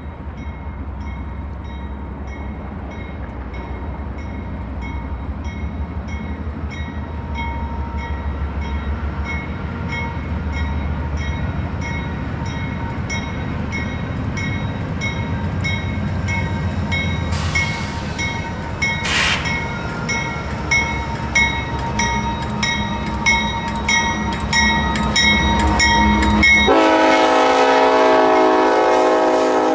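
A train running by with a low rumble while a bell rings steadily about twice a second. Near the end the locomotive's horn blows, loud and held.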